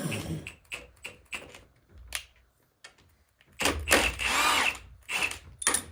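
A handheld power driver runs for about a second and a half, backing a bolt out of a manual transmission case. Short metallic clicks and knocks of tools come before and after it.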